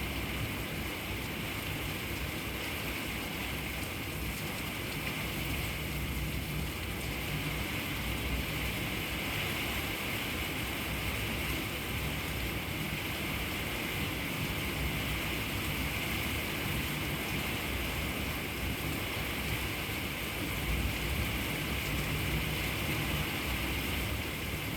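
Steady rain falling, an even hiss that stays constant throughout.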